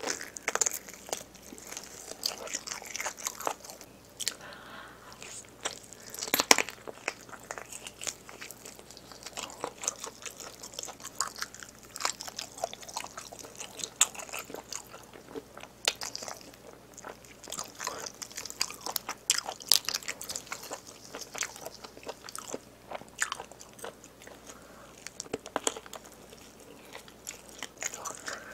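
Close-miked eating of spicy braised pig's trotters: biting and chewing, with many sharp mouth clicks at irregular intervals.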